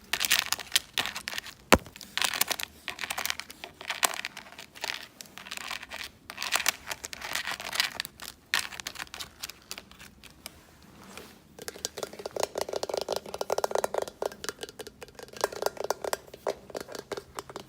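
Fast ASMR scratching and crinkling on an object close to the microphone, with a sharp click a couple of seconds in. About two-thirds of the way through it changes to rapid, close-spaced tapping that rattles.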